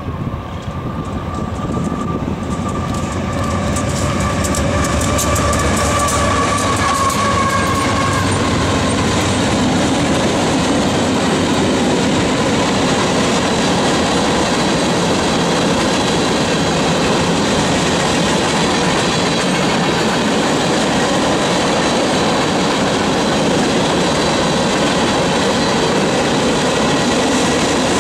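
Union Pacific diesel-hauled freight train passing close by. A held horn chord slides slightly lower in pitch and fades over the first eight seconds as the locomotive goes by. Then comes the steady rumble and clickety-clack of covered hoppers and autorack cars rolling past.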